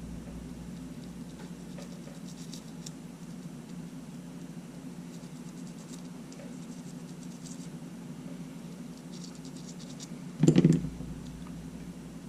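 Faint scratching and light clicks of small parts being worked on a Sony A7 camera body as its sand-jammed buttons are moved back and forth to free them, over a steady low hum. A short, louder thump comes near the end.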